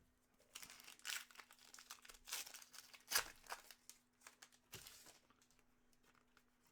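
Crinkling and rustling of plastic and foil packaging as trading cards are handled, in a run of short bursts that fade out after about five seconds. A faint steady hum runs underneath.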